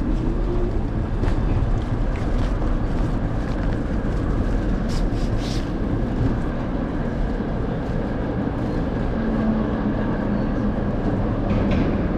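Steady rumble and wind noise of an electric scooter riding along a busy city street, picked up by a camera mounted on the handlebars, with traffic around it.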